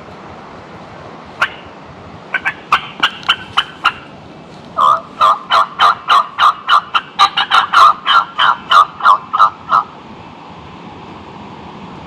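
Hen-turkey cutting on a turkey call: a few sharp, spaced clucks, then a longer, louder run of quick, sharp clucks lasting about five seconds, meant to provoke a gobbler into gobbling. No gobble answers.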